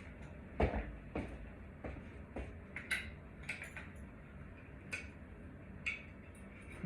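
A string of irregular sharp metallic clinks and knocks, about ten in all, as small metal parts and tools are handled.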